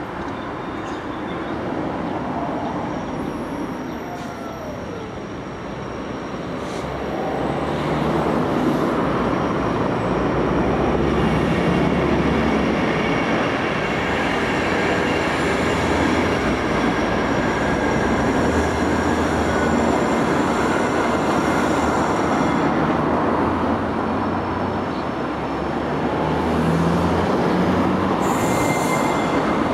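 A Class 66 diesel locomotive hauling a container freight train approaches: a steady engine drone with wheel and rail rumble that grows louder about seven seconds in and then holds, with faint high wheel squeal on the curve.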